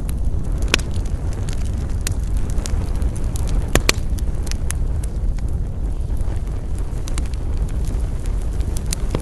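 Wood campfire burning with a steady low rumble and irregular sharp crackles and pops, two of them loudest a little before the halfway point.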